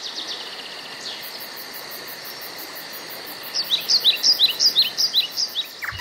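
A songbird calling: a faint fast trill of short high notes in the first second, then, past the middle, about two seconds of loud short downward-sliding chirps, some five or six a second, at two alternating pitches, over a steady outdoor hiss.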